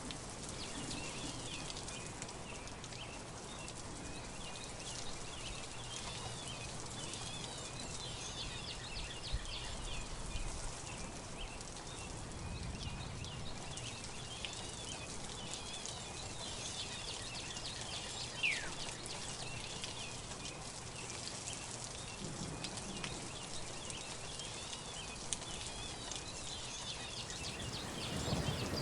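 Forest birds calling: many short, high chirps over a steady hiss, with one clear falling whistle about two-thirds of the way through.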